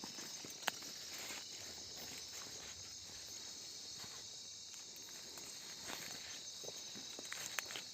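A steady high-pitched chorus of night insects, with scattered footsteps and rustles through the undergrowth.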